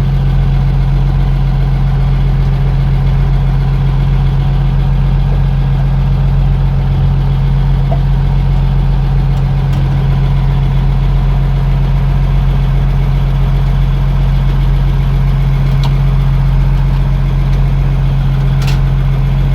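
Fishing boat's engine idling steadily with an even low hum.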